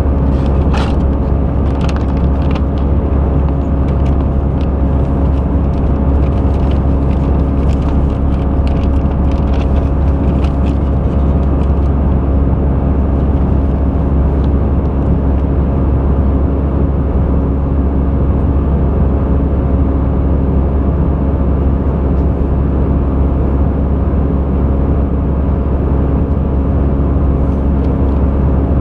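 Airbus A320 in flight, heard from the passenger cabin: a loud, steady drone of jet engines and airflow with a constant low hum. Light ticks or rattles come and go during roughly the first ten seconds.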